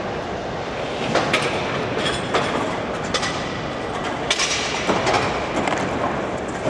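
Steady din of a busy exhibition hall, broken by several sharp metallic knocks and clinks.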